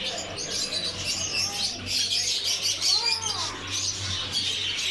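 Many small caged birds chirping and twittering at once in a dense, continuous chorus of short high chirps, with one lower swooping call about three seconds in.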